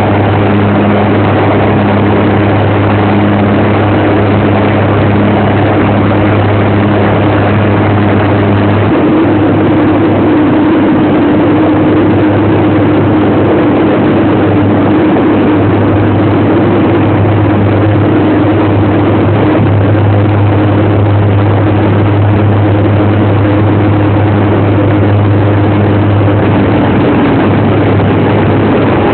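Aircraft engines droning steadily, a continuous loud noise with a low hum whose pitch shifts slightly about nine seconds in.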